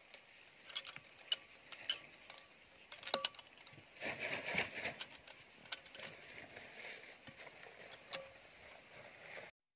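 Irregular metallic clicks and clinks of mechanics' hand tools on steel parts, with a short rustle about four seconds in.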